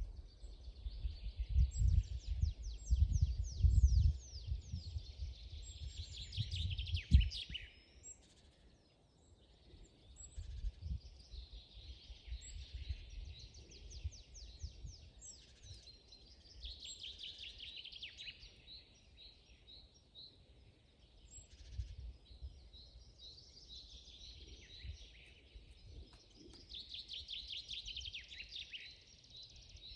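Forest songbirds singing, one bird repeating a song phrase of a couple of seconds, a fast run of quick notes, every few seconds. A low rumble underlies the first several seconds, with a sharp thump about seven seconds in.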